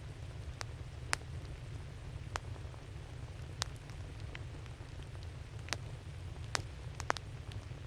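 Wood campfire crackling: sharp, irregular pops and snaps of burning wood, about a dozen, over a steady low rumble.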